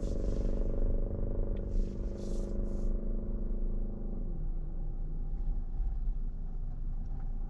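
Inside a Tesla Model Y's cabin: low road rumble with a steady hum that slides down in pitch about four seconds in, as the car settles to a stop at a light. Brief hissing twice in the first three seconds.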